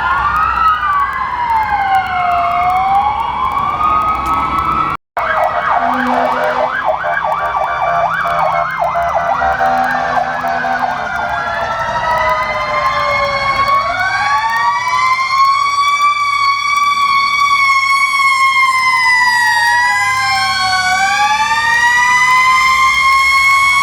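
Fire truck sirens wailing, several at once, their pitches rising and falling out of step. About five seconds in the sound drops out for an instant, then one siren switches to a fast yelp for a couple of seconds before the slow wails return.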